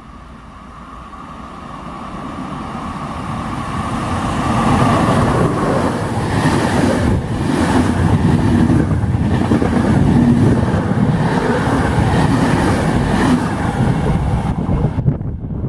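Passenger train running through a station at speed. Its sound builds over the first five seconds with a steady whine, then holds as a loud rush of coaches and wheels on the rails. The high part falls away near the end.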